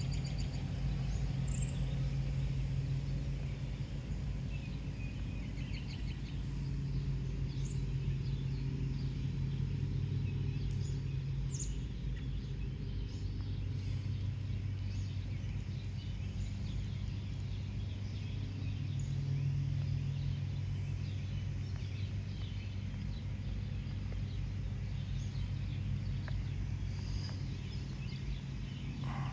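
Outdoor ambience: a steady low hum with scattered short bird chirps. No cicada chorus is heard.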